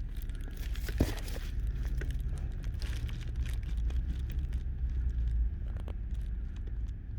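Skoda Yeti steering column being jerked by hand with the engine off, giving scattered knocks, the sharpest about a second in, over a low rumble. The knocks come from play in the steering, with the steering rack rod rocking.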